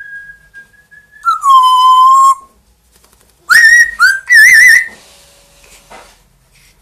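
Pet parrot whistling loudly: a long held whistle, then, about three and a half seconds in, two short rising whistles followed by a warbling, trilled whistle.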